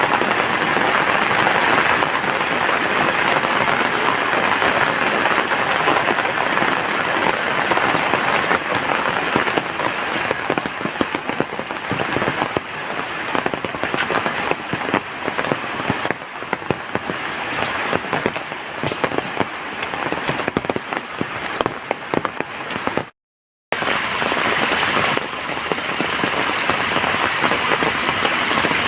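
Heavy rain falling steadily, a dense wash of drops striking surfaces. The sound cuts out completely for about half a second roughly three-quarters of the way through, then the rain resumes.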